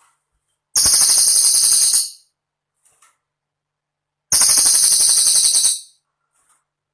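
Cililin bird song: two rapid, high-pitched trilling bursts of about a second and a half each, a few seconds apart.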